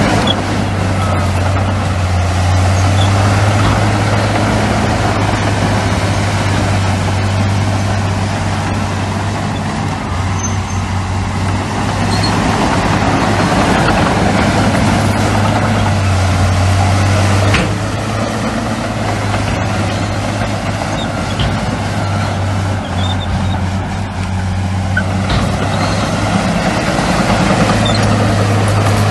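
Heavy diesel earthmoving machinery, bulldozers and dump trucks, running: a steady low engine drone that swells and eases a few times, with one short knock partway through.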